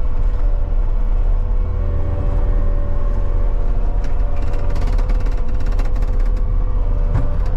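CAT 279D compact track loader's diesel engine running steadily under work, with a steady whine over the low drone. A spell of rapid clicking and rattling runs from about four to six and a half seconds in.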